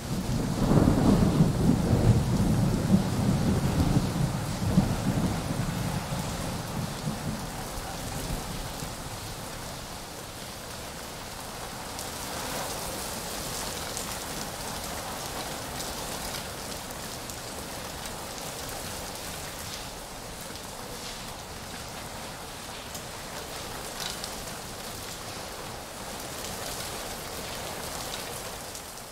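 Heavy rain pouring steadily, with a long low roll of thunder in the first several seconds that fades away, leaving the even hiss of the downpour.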